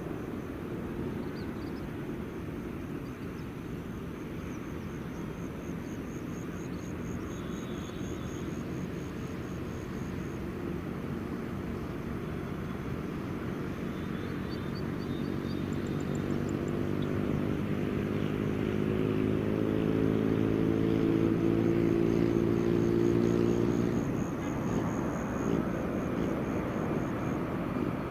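Boeing 787-9 airliner on approach to land, its engine drone building steadily louder, peaking about twenty seconds in, then falling away suddenly near the end. A faint high pulsing trill comes and goes over a steady outdoor hiss.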